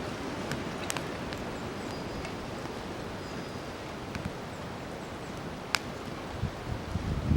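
Hardwood campfire burning, a steady hiss with scattered sharp pops and crackles. Near the end a louder low rush rises.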